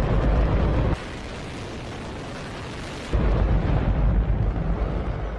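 Hydrogen-oxygen rocket engine firing on a test stand: a continuous loud roar. About a second in it drops to a thinner, quieter hiss for some two seconds, then returns at full strength and fades off near the end.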